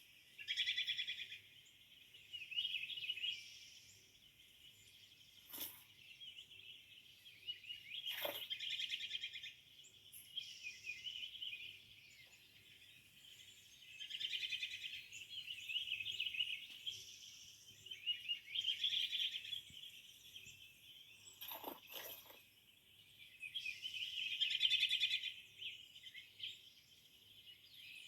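Small birds chirping and singing in repeated bursts of rapid trills every few seconds, with a few short sharp clicks in between.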